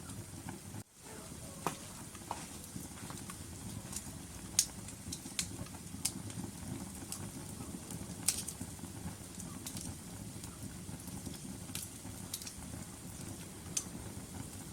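Logs burning in a fireplace: a steady low rustle of flames with sharp crackles and pops every second or two, the loudest a little over four seconds in and about eight seconds in. The sound drops out for a moment about a second in.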